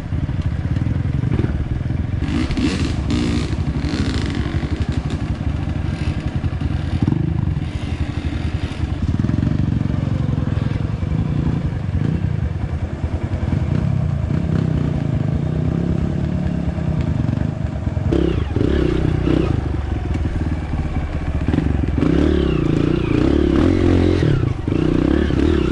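Off-road motorcycle engine running steadily while the bike is ridden; the engine note changes about eighteen seconds in.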